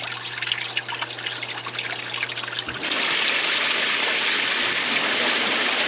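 Hot tub water trickling and churning with a low pump hum. Almost three seconds in, the hum stops and a louder steady rush of water takes over as the jets run.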